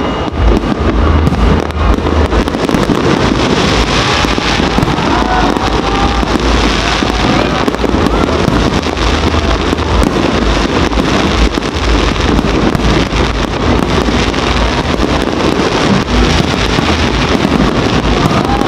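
Fireworks barrage: many shells bursting in quick succession over a continuous deep rumble.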